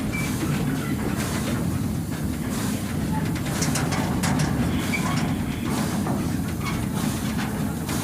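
Steady low rumble of a railway wagon rolling along the track, with scattered clicks and knocks from the wheels running over the rails.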